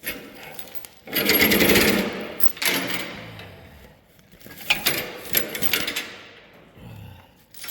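Heavy metal chains from a vehicle lift rattling and clinking as they are handled, in several bursts of clatter, the loudest about a second in.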